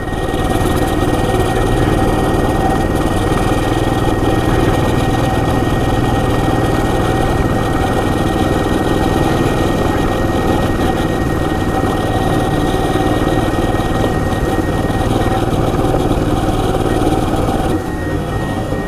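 Coleman CT200U EX mini bike's small single-cylinder four-stroke engine running steadily while riding along a dirt road. The sound drops a little about a second before the end.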